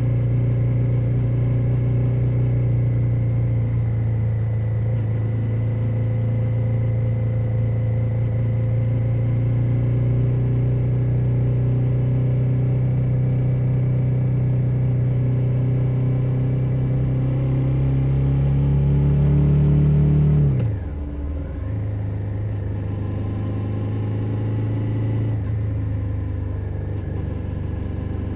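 2021 Suzuki SV 650's 645 cc V-twin engine running under way, its note climbing slowly as the bike gathers revs. About twenty seconds in, the revs and volume drop sharply, then the engine settles into a lower, steady note.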